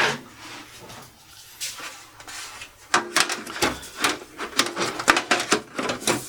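Metal side panel of a desktop tower case being handled and fitted back on: a few faint ticks, then from about three seconds in a quick run of clicks, knocks and clatters.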